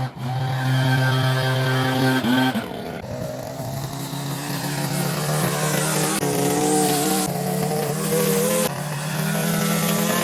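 Small gasoline engine of lawn equipment running at a steady speed, its pitch shifting abruptly several times.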